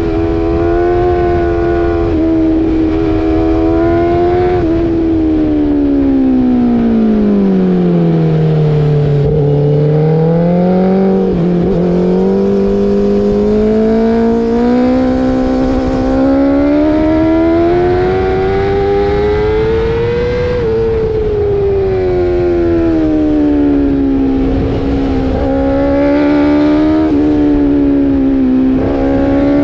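Motorcycle engine running hard at high revs, heard from on board with wind rush. About a third of the way in its pitch drops over a few seconds as it slows. It then climbs steadily as it accelerates, dips briefly and rises again near the end.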